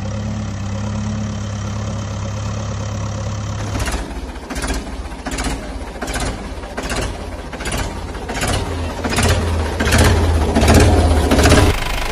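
A heavy vehicle engine running steadily, then about four seconds in it changes to a chugging, knocking beat of just under two strokes a second that grows louder and cuts off shortly before the end, leaving a steady engine running.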